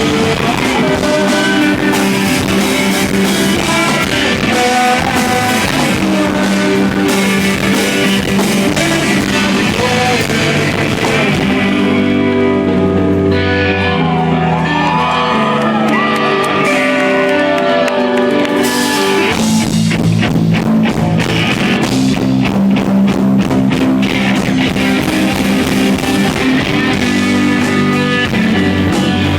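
A rock band playing live in a hall, with electric guitars, drums and singing. For several seconds in the middle the drums drop out, leaving a softer guitar passage with wavering, bending notes, and then the full band comes back in.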